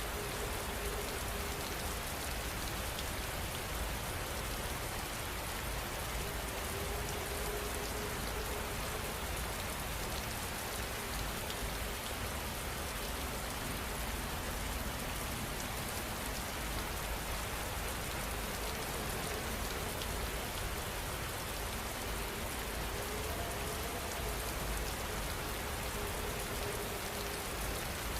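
Heavy rain falling steadily: an even, unbroken hiss of drops with no thunder.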